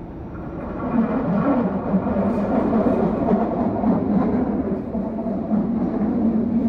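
Deutsche Bahn ICE 3 (class 406) high-speed electric train arriving at a platform at close range. The rumble of wheels on rail grows louder over about the first second as the front reaches the microphone, then holds steady as the coaches roll past.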